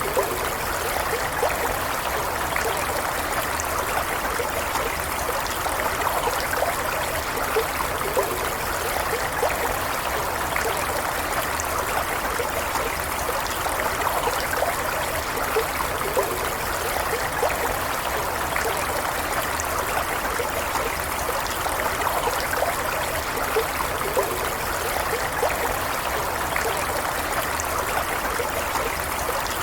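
Stream water flowing steadily over stones, a continuous rushing with small splashes and trickles throughout.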